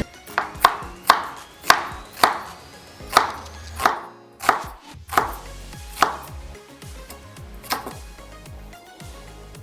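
A knife chopping vegetables on a cutting board: about eleven sharp, uneven strokes, thinning out after the first six seconds.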